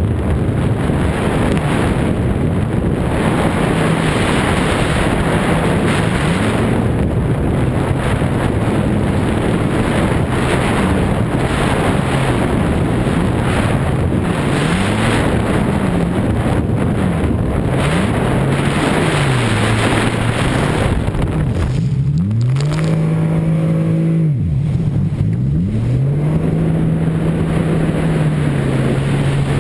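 Jet ski engine running at speed, its pitch repeatedly rising and falling as the throttle is worked, under heavy wind buffeting the microphone. About three quarters of the way through, the wind eases for a couple of seconds and the engine note stands out as it climbs and drops.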